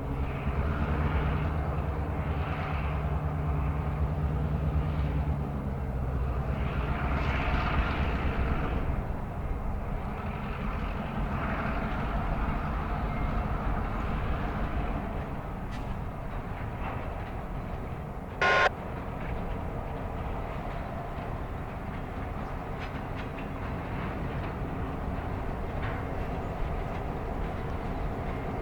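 Vehicle rumble: a low engine hum for about the first six seconds fades into a steady noisy rumble, and a short high-pitched beep sounds once about two-thirds of the way through.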